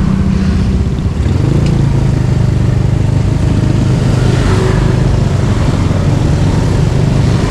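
Bored-out Yamaha Mio automatic scooter engine running steadily while being ridden, its low drone shifting in pitch about a second and a half in, with road and wind noise that swells about halfway through.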